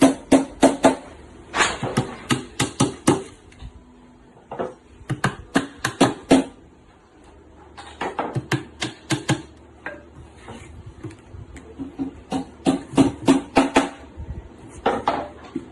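Hammer driving nails into a 10 mm plywood box: quick runs of sharp blows, several a second, with short pauses between runs.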